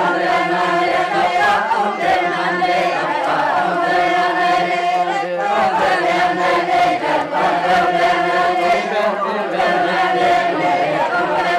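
Group of voices chanting a song in long, held notes, with a brief break about five and a half seconds in.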